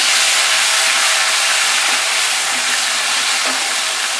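Chopped tomato sizzling in hot oil with whole spices in a kadai: a loud, steady frying hiss as a spatula stirs it.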